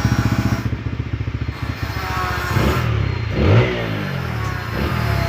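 TVS Apache RTR 160 4V's single-cylinder engine idling with an even, rapid pulse through an aftermarket silencer being tried out. About halfway in it is revved briefly, the pitch rising and falling back to idle.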